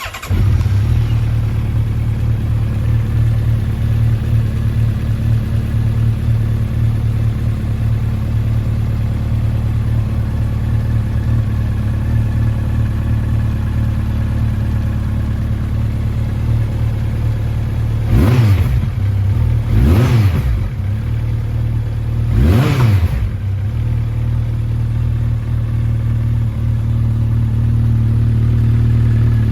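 Honda CB1300 Super Four SP's inline-four engine starting up, then idling steadily. About two-thirds of the way in, the throttle is blipped three times, each rev rising and dropping quickly back to idle.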